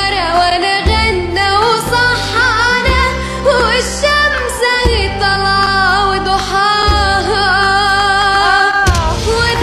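A voice singing a melismatic melody over music with a steady, sustained bass accompaniment.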